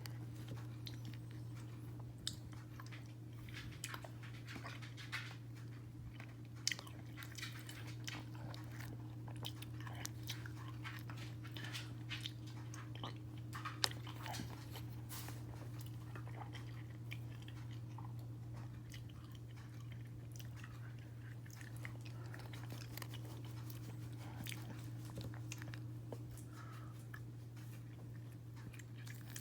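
Close-up chewing and crunching of a mouthful of ice cream with frosted animal cookie pieces, with many short clicks, thickest in the first half, over a steady low hum.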